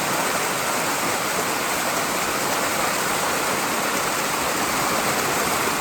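A waterfall rushing steadily: a constant, even roar of falling water with no breaks.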